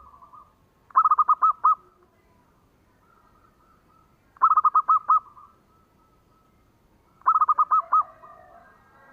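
Zebra dove (perkutut) cooing: three phrases of five or six quick staccato notes, about three seconds apart. A fainter, more jumbled bird call follows the third phrase near the end.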